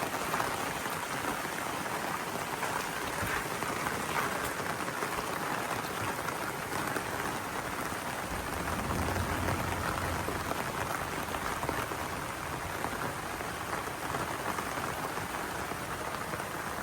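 Heavy rain falling steadily on the ground and surfaces, an even hiss, with a low rumble swelling briefly about halfway through.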